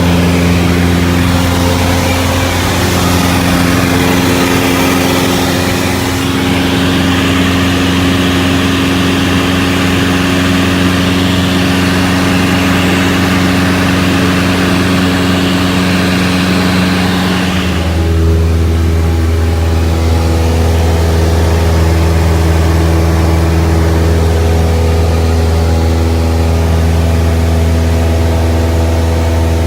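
Cessna 172's piston engine and propeller droning steadily in the cockpit. About eighteen seconds in the tone changes and the high rushing hiss drops away.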